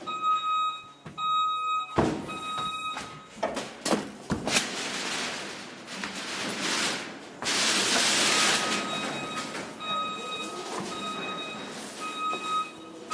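An electronic warning beeper sounds in a run of short, high, even-pitched beeps, broken in the middle by a few seconds of loud rushing noise.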